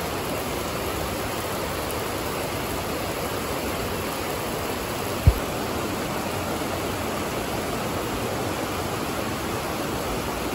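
Heavy rain pouring down, a steady, even hiss of a downpour. A single short low thump about halfway through.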